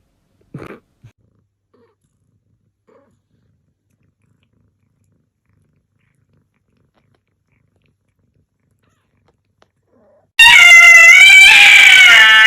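A cat yowls loudly near the end: one long, wavering call. Before it there is near silence, apart from a brief faint sound about half a second in.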